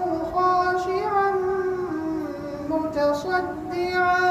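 A high-voiced reciter chanting the Quran melodically, drawing out long held vowels with ornamented turns and gliding steps in pitch.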